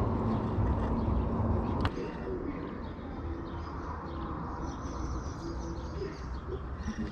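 Birds calling: short low notes and higher chirps. A low rumble fills the first two seconds and ends with one sharp click.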